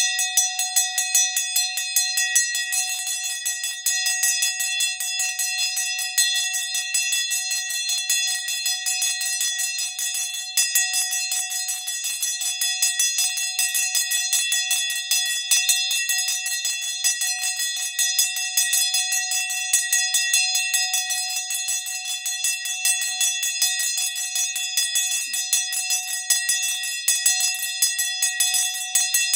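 A hand-held bell rung rapidly and continuously, its clapper striking many times a second and keeping up an unbroken, bright ringing.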